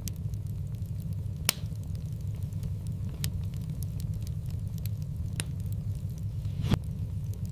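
Wood fire crackling in a fireplace: a steady low rushing of the flames with scattered small ticks and about four sharp pops, the loudest near the end.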